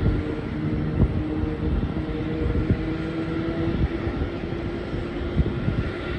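Distant jet airliner engines running as aircraft taxi, a steady hum with a few held tones, with wind buffeting the microphone.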